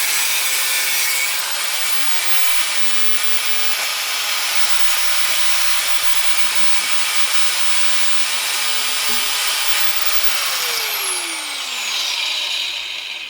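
Angle grinder cutting into a scrap electric motor, a steady loud grinding hiss. About three-quarters of the way through the cut ends, and the disc spins down with a falling whine until it stops near the end.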